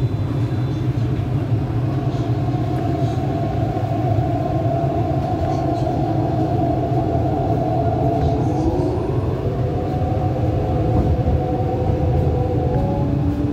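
MTR East Rail line R-Train electric multiple unit running on the track: a steady low rumble with the whine of its electric traction motors. From about two-thirds of the way in, the whine splits into several tones that climb in pitch.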